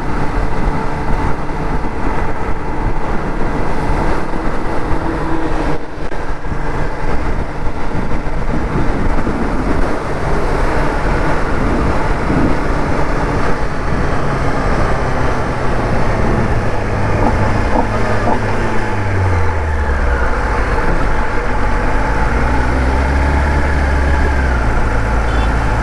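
Kawasaki ZX-10R inline-four engine running at a steady highway cruise, heard with road and wind noise; about three-quarters of the way through its note drops lower.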